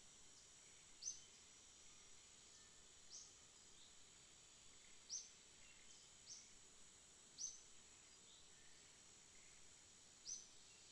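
Faint outdoor quiet with a small bird giving short single chirps, about six of them, one every second or two, over a steady high hiss.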